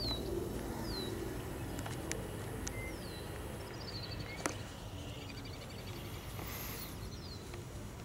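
Songbirds singing: short whistles sliding downward in pitch, repeated about once a second, with a trilled phrase about four seconds in, over a steady low rumble.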